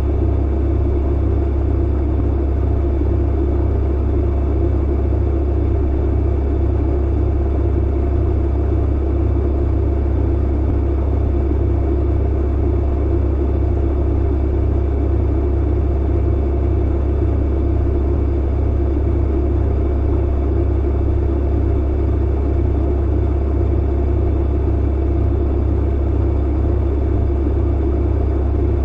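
Tumble clothes dryer running with a steady, deep hum.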